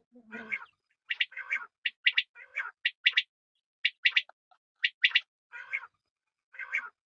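Quail calling. Short, sharp, high notes come in quick twos and threes, alternating with raspier, wheezy calls, a call or cluster roughly every half second.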